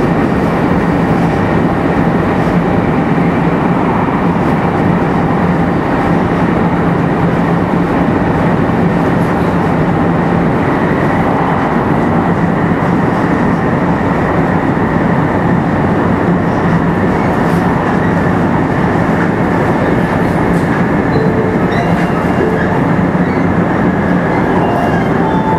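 Running noise inside a 500 series Shinkansen motor car at speed: a steady rumble of wheels and rail with a constant hum from its Toshiba GTO VVVF inverter. Near the end, short inverter tones step upward in pitch.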